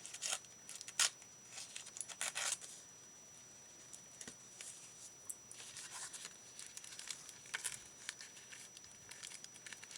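Damp paper being torn by hand in short, quiet rips with some rustling of the sheet, the paper still soft from being wet.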